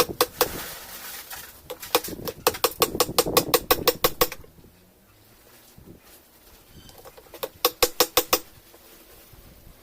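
Rapid run of sharp, light metallic clicks or taps, about seven a second, as metal parts of a washing-machine mechanism are worked by hand; a first run lasts about four seconds and a shorter one of about a second comes near the end.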